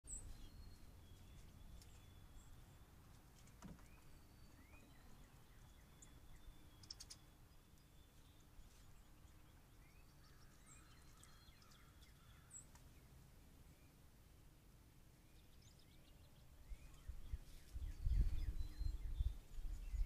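Small birds chirping and calling now and then in the background, short rising notes with a brief trill about a third of the way in. A louder, uneven low rumble comes up near the end.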